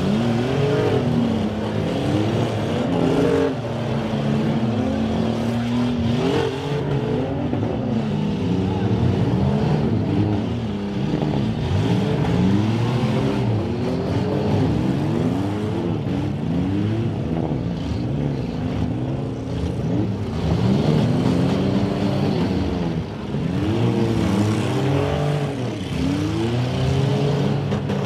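Several 1990s-and-newer demolition derby cars running at once, their engines revving up and down over one another in constant rising and falling sweeps.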